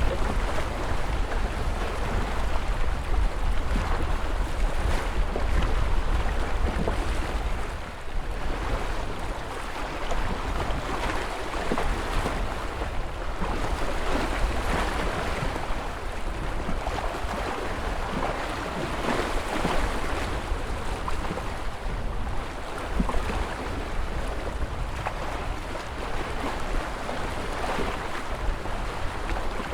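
Ocean surf washing steadily, a continuous wash of waves with a deep low rumble underneath from wind on the microphone.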